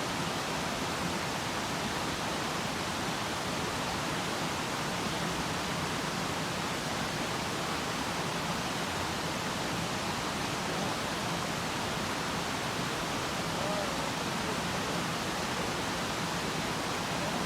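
Steady rush of fast-flowing mountain stream water, an even, unbroken wash of noise.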